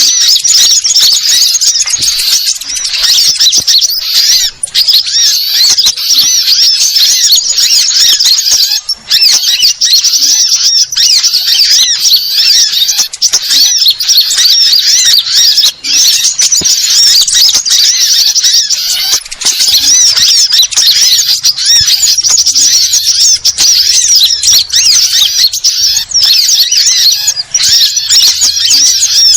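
Sunbirds and other small songbirds calling over one another in a dense, unbroken chorus of quick, high-pitched chirps and twitters.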